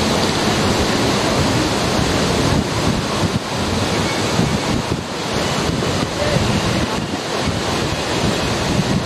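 Sea surf washing ashore, with wind buffeting the microphone in a steady, loud rush.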